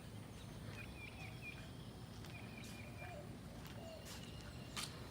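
Low steady rumble with faint, scattered short bird chirps, and a sharp click near the end.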